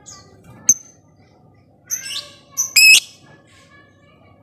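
Lovebird calling: short, high, falling chirps, a harsh squawk about two seconds in and a loud, piercing call just before three seconds, with a sharp click under a second in.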